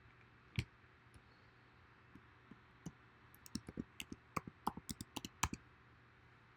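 Computer keyboard keys clicking: a single click, then a quick irregular run of about a dozen keystrokes, over a faint steady hum.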